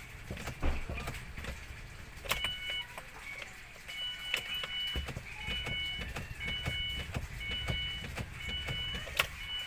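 2006 Ford Escape's 2.3-litre four-cylinder engine idling with a steady low rumble. From about two seconds in, short two-tone electronic beeps repeat about once a second, with a few light clicks.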